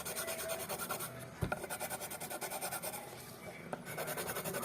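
Colouring-in on paper: fast, even back-and-forth scribbling strokes, many a second, with a single knock about one and a half seconds in.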